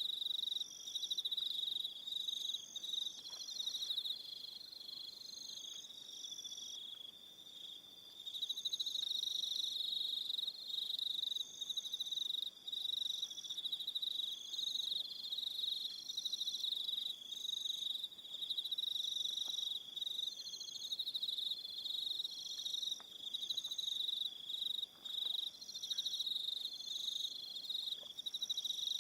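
Evening chorus of crickets trilling steadily at a high pitch. Shorter, higher chirps from other crickets come in over it every second or two.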